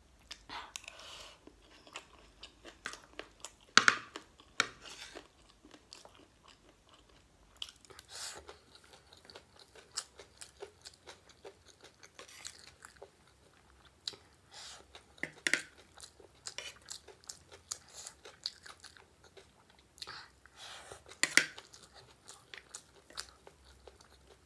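Close-up chewing and soft crunching of a mouthful of gilo chatpate, a wet, spicy Nepali snack. A metal fork scrapes and clicks on a ceramic plate, and three of the clicks are much sharper and louder than the rest.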